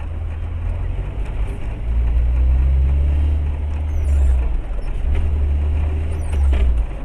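Low, steady rumble of a vehicle's engine and road noise, swelling louder about two seconds in and again near the end.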